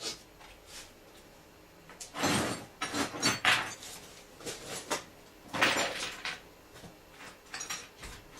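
Knocks, clicks and scraping of parts and tools being handled during work on a car's radiator cooling fan. The sounds come in an irregular cluster about two to three and a half seconds in, and again around six seconds.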